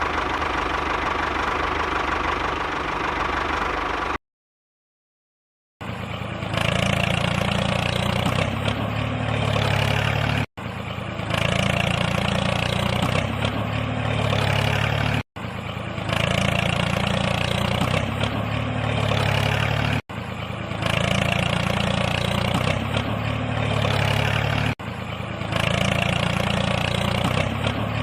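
Steady engine running sound. It breaks off about four seconds in and, after a short silence, comes back as one stretch of about five seconds repeated over and over with abrupt cuts between repeats.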